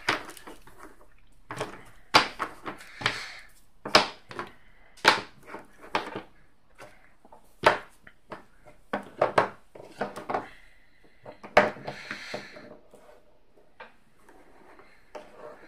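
Unpainted Dwarven Forge plastic cavern terrain pieces clacking and knocking as they are handled and set down on a table, in irregular clicks with short pauses between.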